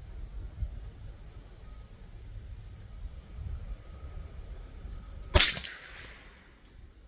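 A single shot from a .22 LR bolt-action rifle about five seconds in: a sharp crack with a short echo trailing off. Insects keep up a steady high buzz behind it.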